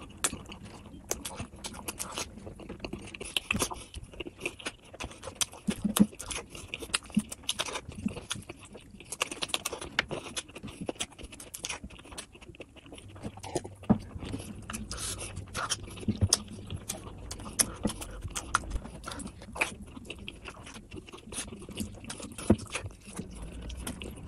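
Close-miked wet chewing and lip-smacking of a person eating spice-coated boiled eggs dipped in curry sauce: a steady run of irregular smacks and clicks.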